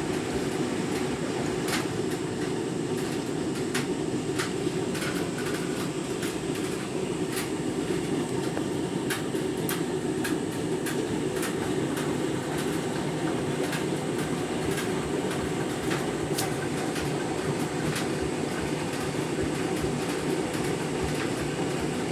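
Candy washing machine near the end of a deep rinse, its drum tumbling a half load through the rinse water with a steady churning rumble. Irregular light clicks are scattered through it.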